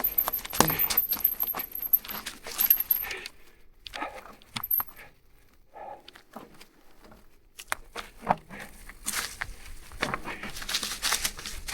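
Marin Alpine Trail 7 mountain bike clattering down a rough dirt trail: irregular rattles of chain and bike parts over rocks and roots, easing off for a couple of seconds around the middle.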